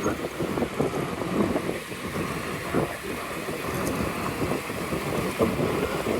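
Wind buffeting the microphone while riding, over a rushing road and traffic noise.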